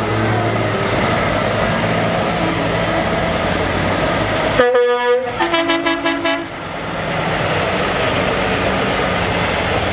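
Heavy trucks passing with a steady diesel engine drone. About halfway through, a truck horn gives one short blast, then a rapid stuttering run of quick toots lasting about a second.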